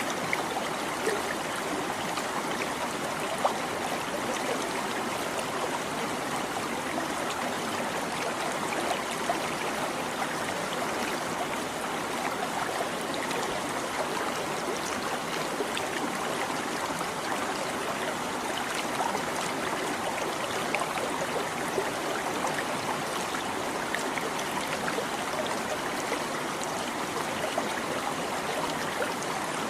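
A small stream babbling and trickling steadily over stones, with small splashes here and there.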